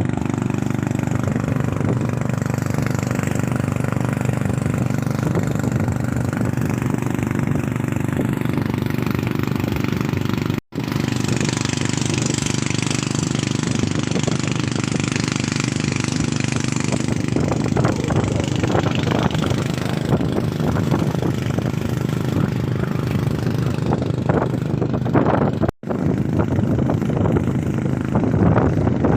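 Engine of the boat towing a banana boat, running steadily at speed. Rough wind and water noise grows stronger in the second half. The sound drops out briefly twice.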